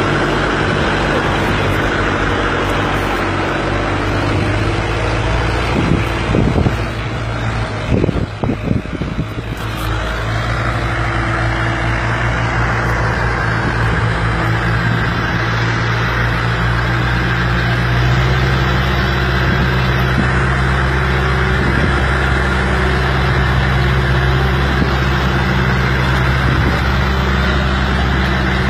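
Fiat 480 tractor's three-cylinder diesel engine running steadily, with a short uneven, surging stretch about a quarter of the way through before it settles again.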